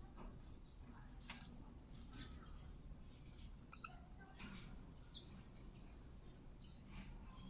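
Parrots nibbling and crunching apple: faint, irregular crisp crackles, with a couple of short high chirps around the middle.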